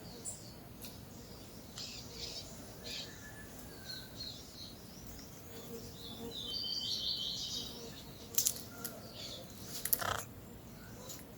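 Peach-fronted parakeets giving short scattered chirps, with a longer chattering call about six to seven seconds in. A few sharp clicks come near the end.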